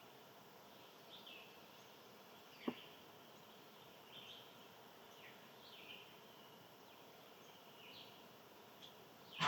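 Small birds chirping faintly outdoors, short down-slurred chirps every second or so. A single sharp click sounds a little under three seconds in.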